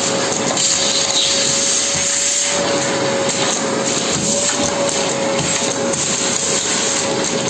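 Vacuum cleaner running steadily with a constant motor whine, while small hard Lego pieces click and rattle as they are sucked up.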